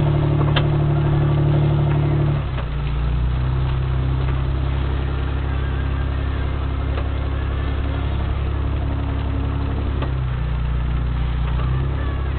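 Four-wheel-drive vehicle's engine running steadily, heard from inside the cabin as it drives along a rough dirt track; its pitch drops about two and a half seconds in and shifts again near the end, with a few light knocks from the bumpy track.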